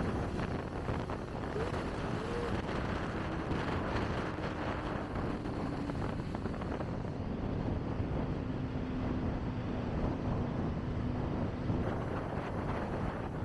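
Wind rushing over the microphone on a moving motorcycle, with the Kawasaki Ninja ZX-25R's inline-four engine running steadily underneath and faint passing traffic.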